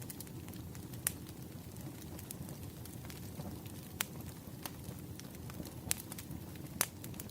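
Wood fire crackling, a steady low rumble with scattered sharp pops and snaps, four of them louder than the rest.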